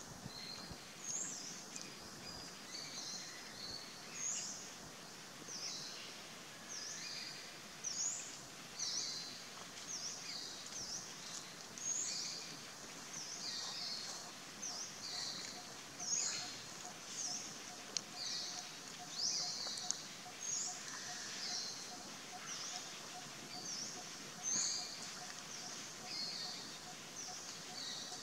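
Birds chirping outdoors: many short, high, downward-sliding chirps repeated every half-second or so over steady background noise, with a faint, rapidly pulsing note joining about halfway through.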